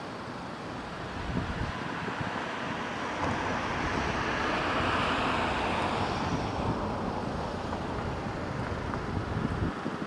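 A vehicle passing by: its noise swells to a peak about halfway through and then fades, with wind buffeting the microphone.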